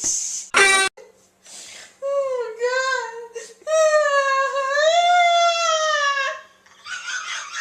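A woman's wheezing laugh, drawn out into high-pitched squealing tones: a short squeak under a second in, a wavering squeal about two seconds in, then one long squeal lasting over two seconds, ending in breathy gasps.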